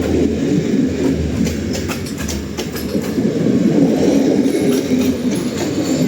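Passenger train rolling past, its wheels rumbling with scattered clicks over the rail joints. A low hum underneath fades out after about two and a half seconds.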